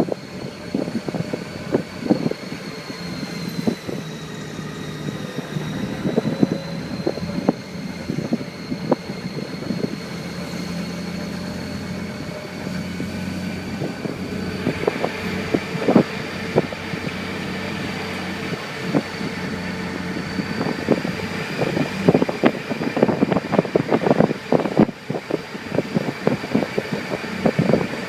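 Motorcycle engine running at low speed as it rides along, a steady low drone, with many short sharp knocks and crackles over it that come thicker near the end.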